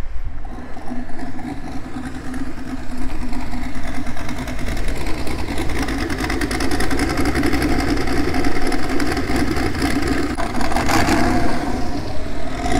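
Turbocharged LS V8 in a Subaru WRX running at low speed as the car rolls up and stops, growing louder as it comes closer.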